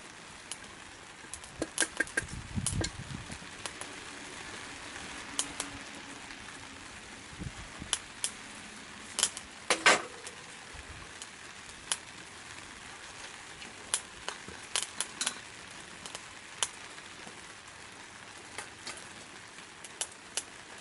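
Wood fire crackling in a secondary-combustion wood stove burning chopsticks, pellets and scrap wood: sharp, irregular pops over a steady hiss, with clusters of louder pops about two seconds in and again around ten seconds.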